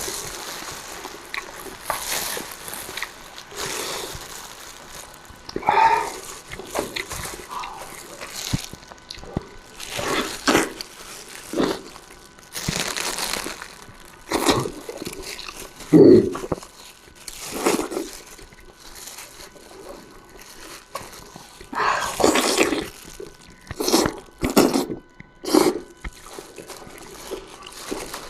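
Close-up eating sounds: slurping, sucking and chewing soft, stewed-tender food, heard as irregular wet mouthfuls of varying loudness.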